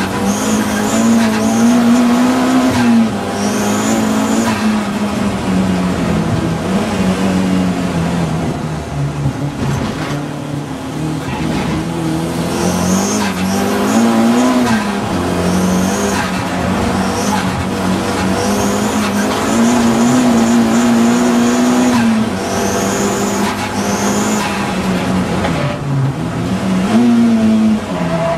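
Audi TT race car engine running hard without a break, its pitch climbing and dropping again and again through gear changes and lifts. Short high tyre squeals come through the corners.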